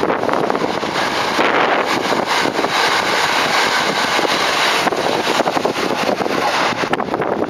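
Electric commuter train running past on the rails, a loud, steady rush of wheel and rail noise with dense clatter.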